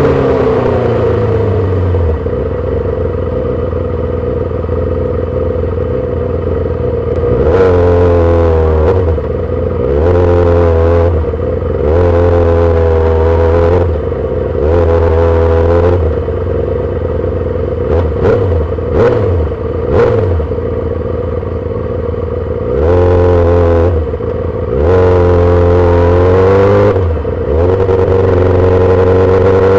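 2008 Yamaha R6's 600 cc inline-four through a full SC-Project exhaust, ridden in city traffic. Revs fall at first, then the engine runs low and steady for several seconds. After that it goes through repeated short bursts of throttle, each rising and then dropping off, with a few quick throttle blips in the middle.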